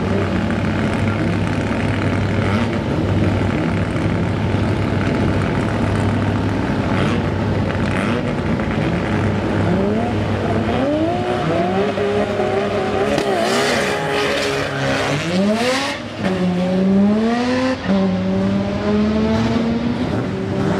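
Nissan Skyline GT-R R32's twin-turbo straight-six holding revs at the drag-strip start line, then launching hard. From about halfway through, the engine note climbs in pitch and falls back at each of several upshifts as the car accelerates away.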